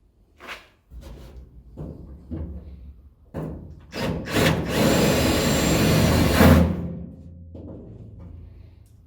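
Scattered knocks and clatter of shop work, then a power tool runs for about two and a half seconds in the middle before falling off.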